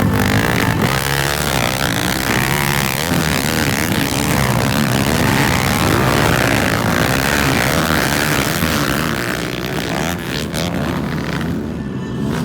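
Motocross bike engines racing, their note rising and falling as the riders open and close the throttle and shift, easing off a little near the end.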